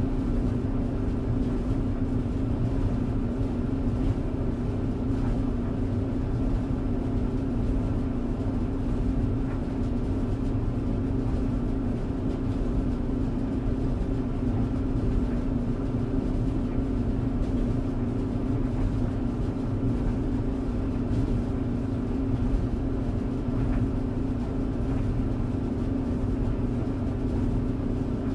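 Tumble dryer running: a steady hum with a low rumble underneath, unchanging throughout.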